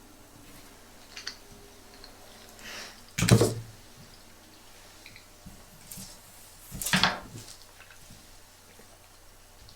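Close-up handling noises: a few light clicks, and two louder brief noises about three and seven seconds in.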